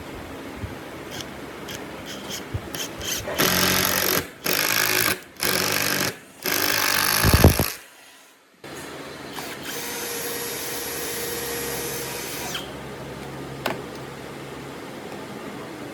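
A handheld power tool working wood, run in four short loud bursts; the last one winds down in a falling pitch. A steadier, quieter machine run follows a moment later.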